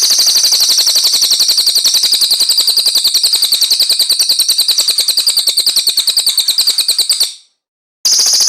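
Recorded songbird masteran: a rapid, continuous trill of evenly repeated high notes. It fades out about seven seconds in, and after a short silence the same trill starts again abruptly, as a looped training track does.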